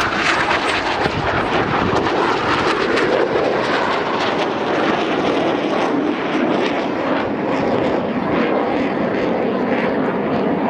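Aero L-159 Alca jet's turbofan engine running, a loud, steady noise that holds level throughout with no clear change in pitch.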